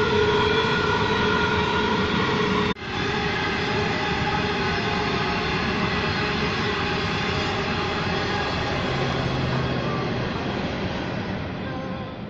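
Long electric coal train rolling past: a continuous rumble of hopper wagons on the rails with steady whining tones over it. The sound breaks off abruptly about three seconds in and picks up again straight away.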